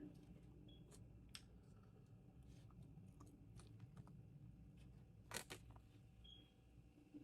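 Quiet eating sounds, faint scattered mouth clicks and small crunches, with one louder brief crackle about five seconds in.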